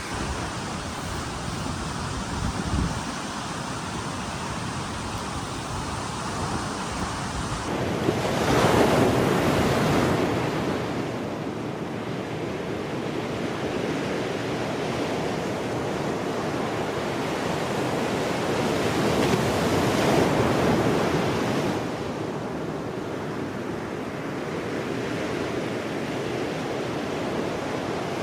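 Strong sea wind and surf: an even rush of waves and gusts, with wind rumbling on the microphone. It swells louder about eight seconds in and again about twenty seconds in.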